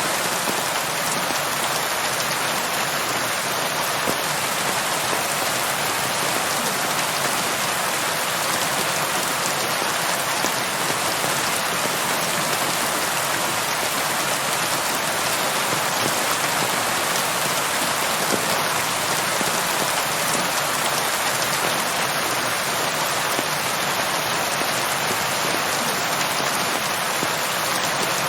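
Steady rain falling, an even hiss of drops with fine pattering on a surface.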